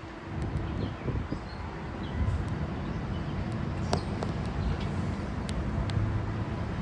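Steady low rumble of a train rolling across a steel trestle, mixed with wind noise on the microphone and a few sharp clicks.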